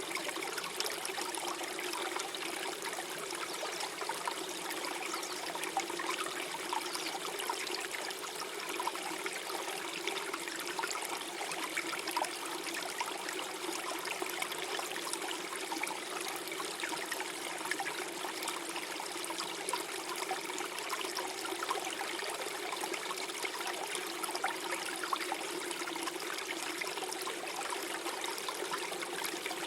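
Small forest stream flowing and gurgling over stones, a steady trickle with small splashes.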